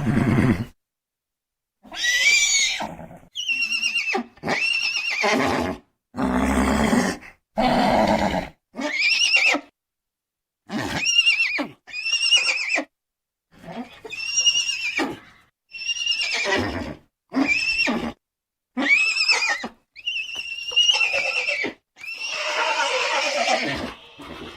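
A string of horse whinnies, about a dozen calls one after another, each a high call that rises and then falls. A few lower, rougher calls come among them. Each call stops abruptly into dead silence before the next, as if the calls were cut together.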